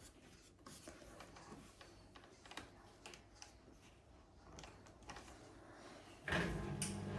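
Faint scattered clicks and taps, then about six seconds in a Hoover Vision Dynamic washing machine starts up with a steady hum as its spin-only cycle begins.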